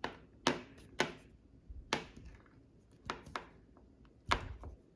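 Irregular sharp clicks and taps, about six over a few seconds, from handling a phone and small hand tools on a hard surface during reassembly.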